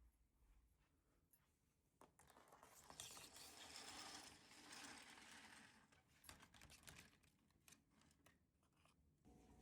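Faint rustling and crinkling of something being handled, lasting a few seconds, followed by scattered small clicks and knocks.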